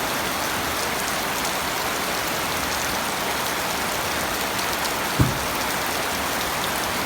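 Steady rain falling, an even hiss with faint scattered drop ticks. A little past five seconds a single short, low thump stands out above it.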